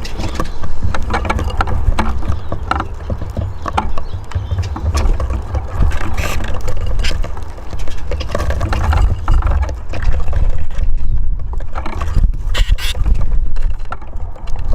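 A steady low rumble of wind on the microphone, with many quick taps and scrapes from Eurasian siskins pecking and hopping on a wooden balcony bird house.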